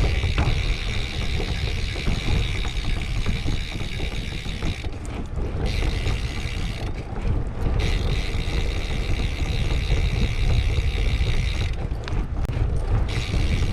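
Wind buffeting an action camera's microphone during a bicycle ride, a steady low rumble, with a hiss of riding noise over it that drops out briefly about five, seven and twelve seconds in.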